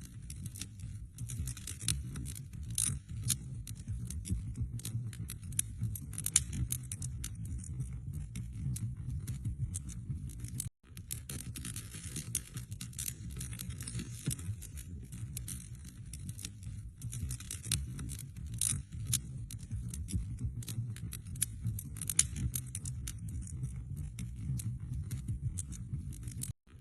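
Wood fire burning in a fireplace: a continuous low rumble of flames with frequent sharp crackles and pops from the burning logs. The sound cuts out for an instant twice, once midway and once near the end.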